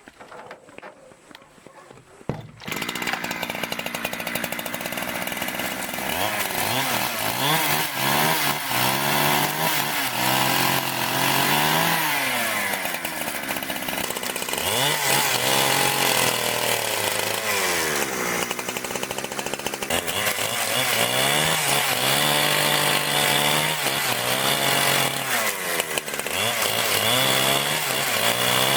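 Two-stroke chainsaw cutting wood, coming in suddenly about two and a half seconds in. Its engine pitch repeatedly drops and rises again as it bogs under load and frees up between cuts.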